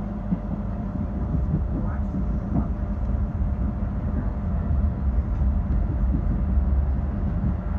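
Commuter train running along the line, heard from inside the carriage: a steady low rumble of the wheels on the rails, rising a little in the second half.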